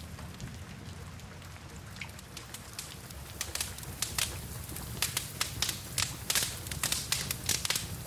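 Wood fire crackling, with sharp pops and snaps that come thicker from about three seconds in, over a steady hiss of rain.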